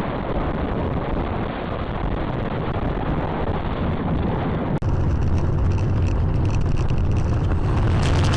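Steady road and engine noise of a moving car, recorded by a dashcam. About five seconds in, a sudden cut brings in a second recording with a stronger low engine hum.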